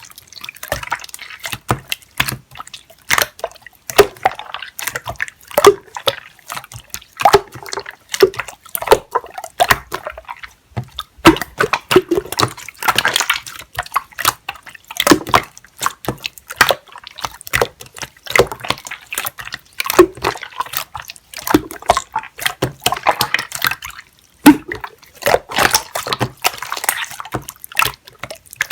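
Clear slime being squeezed, stretched and pressed by hand, making a dense, irregular run of sticky clicks and wet pops.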